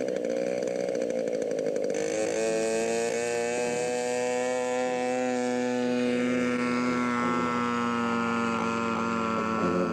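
Small engine of a large radio-controlled scale model airplane running at high speed. Its pitch wavers during the first two seconds, then holds nearly steady with a slow slight fall.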